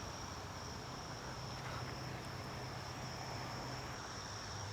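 Insects trilling steadily in one continuous high tone, with a faint low hum underneath.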